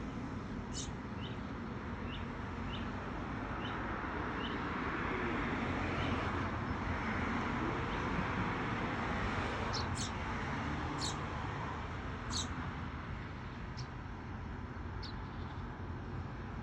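Small birds chirping: a run of soft, quick chirps in the first few seconds, then sharper, louder single chirps scattered from about ten seconds on, as a parent bird feeds its fledgling. Under them, steady traffic noise swells and fades midway, like a vehicle passing.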